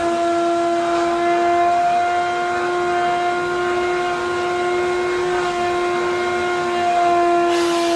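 Wet vacuum cleaner's motor running with a steady high whine over a rushing hiss, with a brief louder rush of air near the end.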